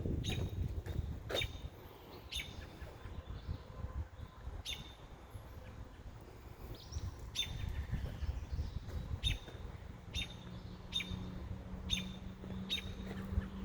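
A bird giving short, sharp chirps, roughly one every second, over a low uneven rumble. A faint steady low hum comes in about ten seconds in.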